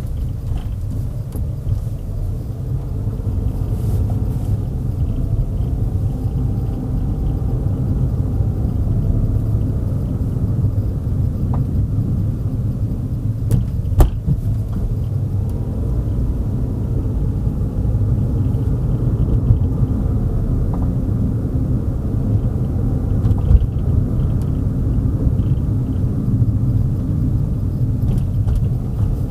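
Car on the move: a steady low rumble of engine and tyres on the road, with faint tones that rise and fall as the speed changes. One sharp knock about halfway through.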